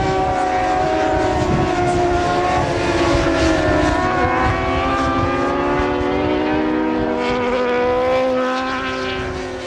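Several racing motorcycles running hard on the track, their engine notes overlapping and sliding up and down in pitch as they pass.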